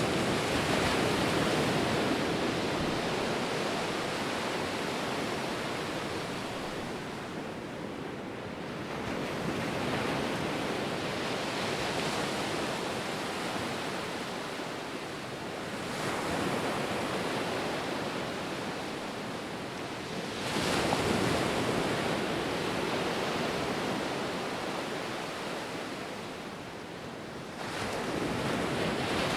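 Ocean surf: waves washing in and breaking, the rushing noise swelling and fading again every few seconds, with a steady hiss between surges.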